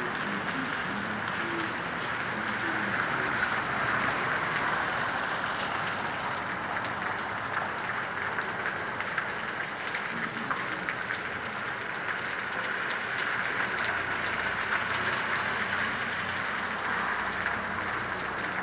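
Heavy rain falling steadily on a street: a dense, even hiss with many small ticks of drops striking close by.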